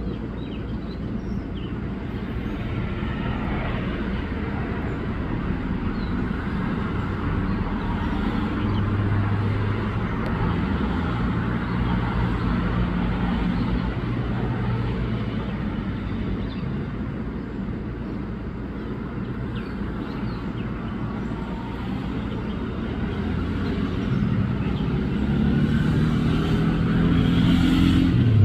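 Steady road traffic noise with vehicle engines running, growing louder near the end as a vehicle comes closer.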